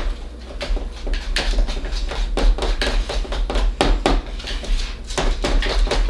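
A dog licking and lapping from a bowl of sticky peanut-butter ice cream mix: a fast, uneven run of wet smacks and clicks.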